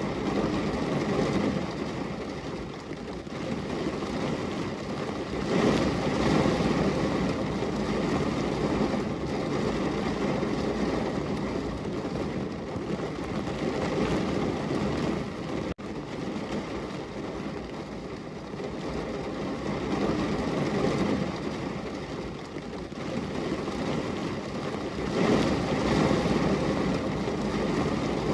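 Heavy rain pouring on a window in a steady hiss that swells and eases every few seconds, with a split-second break about halfway through.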